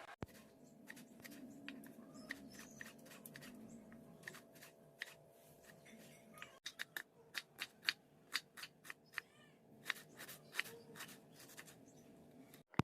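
Irregular sharp clicks and light taps, sparse at first and coming quicker, two or three a second, in the second half, over a faint steady hum.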